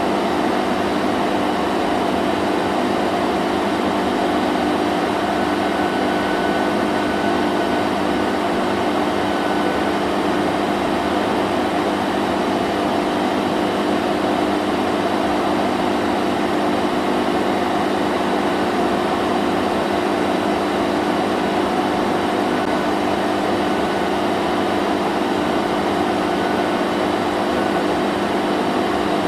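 Vacuum cleaner running steadily: an even whooshing rush of air with a constant motor hum, no change in pitch or level.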